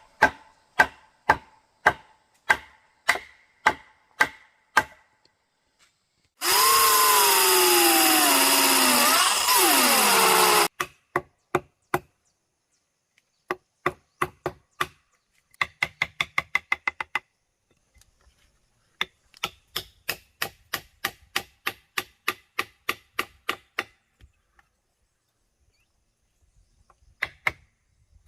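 Sharp strikes on wood, about one and a half a second, then a power tool runs loudly for about four seconds, its pitch sagging near the end before it stops suddenly. Quicker strikes on wood follow in several runs, about four a second.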